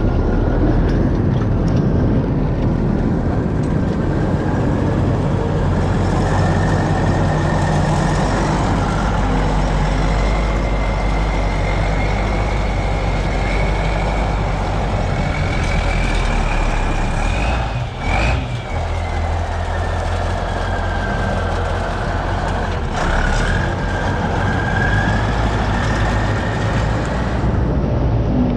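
Kirovets K-700A tractor's V8 diesel running steadily after an engine overhaul, during run-in. A high whine above the engine note slowly rises, then falls. The sound dips briefly about two-thirds of the way through.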